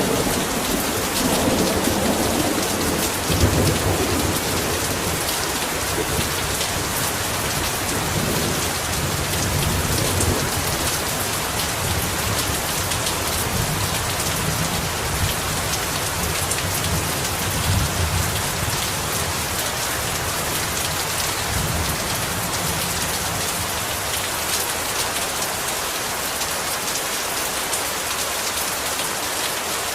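Heavy rain falling steadily, with thunder rumbling low through the first two-thirds and dying away.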